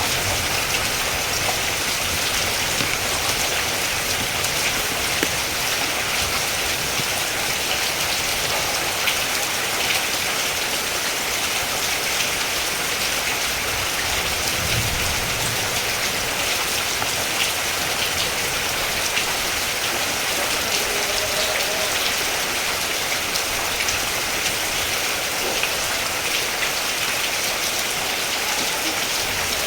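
Steady rain falling, with a dense patter of drops and a brief low rumble about halfway through.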